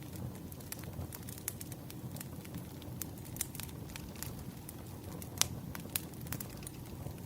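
Wood fire crackling: irregular sharp pops and snaps over a low steady rumble of burning logs, with one louder pop about five seconds in.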